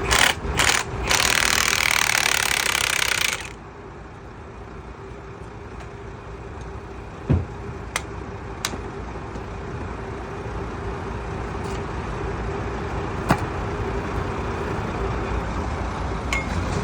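Workshop machine noise: a loud rushing noise for about the first three and a half seconds stops abruptly, then a steady hum runs on with a few sharp knocks, as of metal parts being handled.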